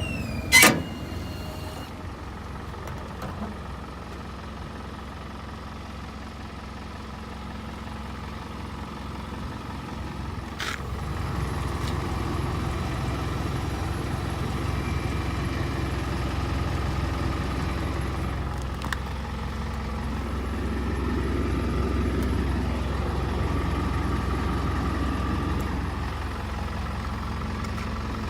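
Japanese used truck's engine idling steadily, getting somewhat louder about a third of the way in. A sharp loud click comes just after the start, with a fainter one about ten seconds later.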